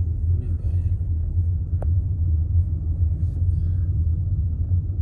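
Steady low rumble of a road vehicle on the move, with a single sharp click about two seconds in.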